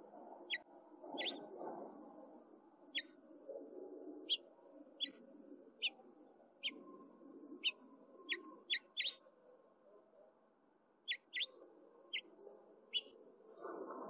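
Small bird chirping: short, sharp chirps repeated irregularly, about one or two a second, over a faint low murmur of background noise.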